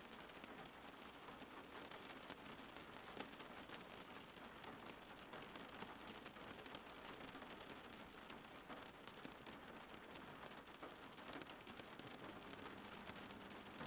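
Faint steady rain: an even hiss with many small drop ticks.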